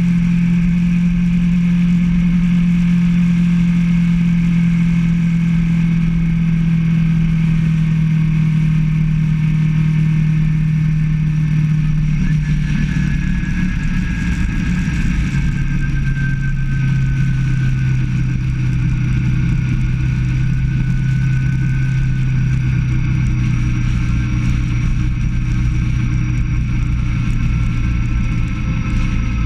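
Motorcycle engine running steadily while riding. Its pitch eases slowly down and drops to a lower, steady note about twelve seconds in.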